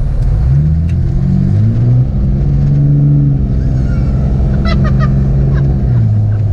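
Dodge Ram 2500's Cummins turbo-diesel engine pulling under acceleration. Its note rises for about a second and a half, steps up about two seconds in, holds fairly steady, then drops back near the end.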